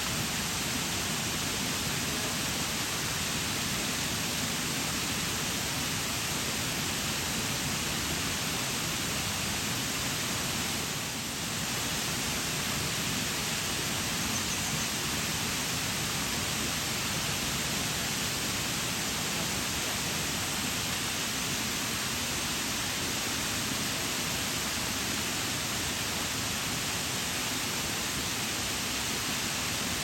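Waterfall: falling water making a steady, even rushing hiss, strongest in the upper range.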